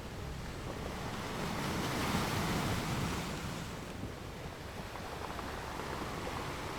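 Ocean waves breaking and washing onto a beach: a steady surf hiss that swells about two seconds in and eases off again past the middle.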